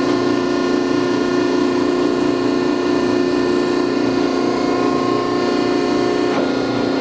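Landis 1R cylindrical grinder running through its automatic plunge-grinding cycle: a steady machine hum with several constant tones. The sound shifts briefly about six seconds in.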